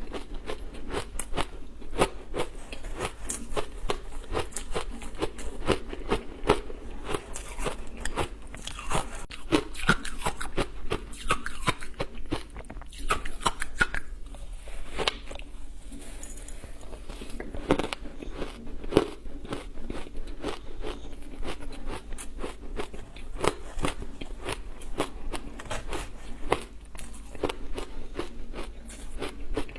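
Ice being bitten and chewed: a dense run of sharp crunches and cracks, with a brief lull about halfway through.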